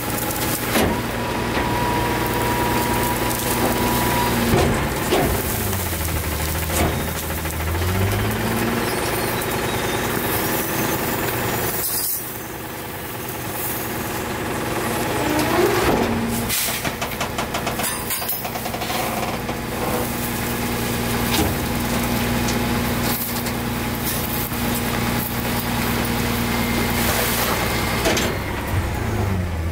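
A CNG-powered Autocar ACX rear-loader garbage truck running steadily. Its engine revs rise and fall several times, and there are a few short bursts of air hiss.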